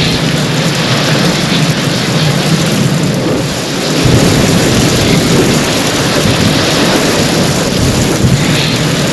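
Heavy rain falling steadily, with a low rumble of thunder swelling about four seconds in.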